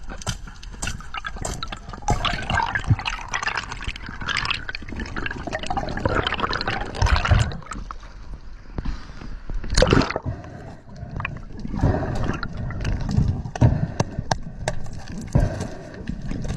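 Water splashing and trickling, broken by many short clicks and knocks.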